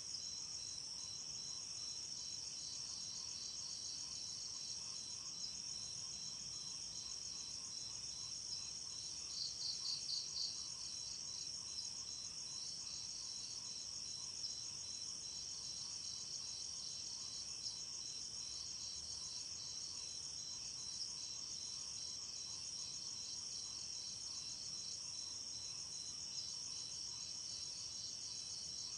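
Night chorus of crickets and other insects: a steady high-pitched trill with fast, regular chirping, and a louder run of about four chirps around ten seconds in.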